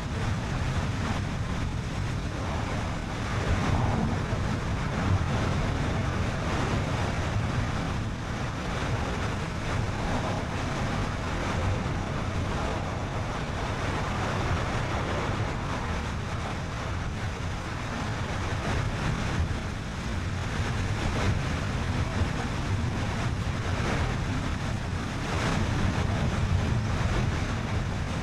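Steady road noise from a moving car, with tyre rumble and wind rushing over the microphone, swelling slightly now and then.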